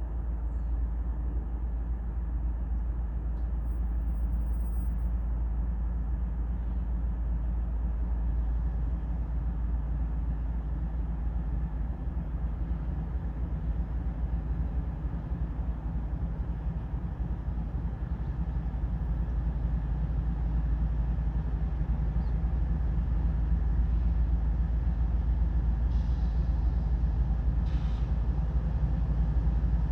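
A diesel freight locomotive and train moving past slowly at low speed, giving a steady low rumble that grows a little louder near the end.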